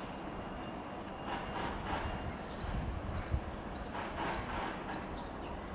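A bird calling: about six short, high chirps in a row, roughly half a second apart, from about two seconds in. Beneath them runs a steady low outdoor rumble like distant traffic.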